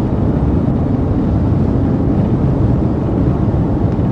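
Steady road, engine and wind noise of a police patrol car driving.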